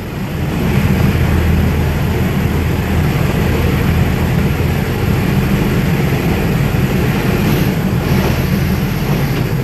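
Nilgiri Mountain Railway toy train running through a short rock tunnel: a steady, loud rumble of the carriages and wheels on the rails, heard from an open window. The train comes out of the tunnel into the open near the end.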